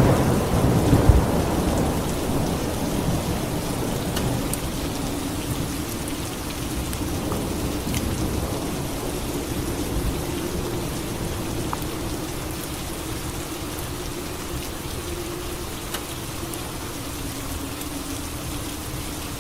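Steady rain falling, with a clap of thunder right at the start whose low rumble dies away over the next few seconds.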